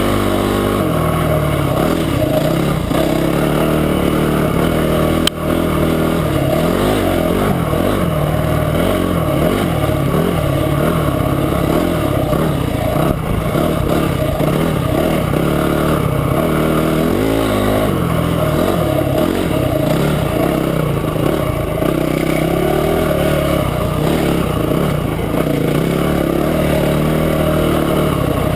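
Motorcycle engine running under way, its pitch rising and falling with the throttle, with one sharp knock about five seconds in.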